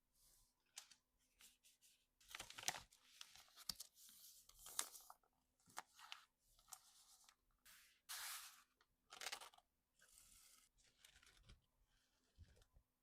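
Packaging being handled by hand: paper or plastic tearing and crinkling in short, irregular bursts with small clicks between them.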